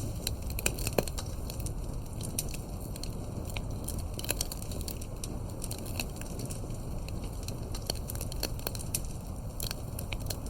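Campfire crackling: irregular sharp pops and snaps of burning firewood over a steady low rumble of the flames.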